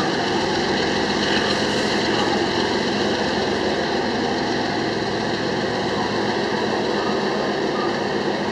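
Loaded freight gondola cars of a sand train rolling slowly past, a steady noise of steel wheels on rail with several steady tones in it.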